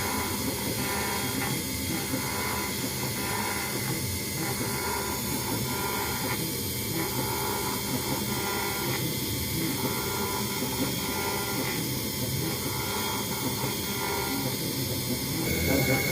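CNC engraving router's spindle running steadily with a 0.1 mm conical bit cutting a brass plate on a finishing pass, the cutting sound swelling and fading every second or two as the tool moves back and forth. Near the end a higher steady whine comes in and it gets louder.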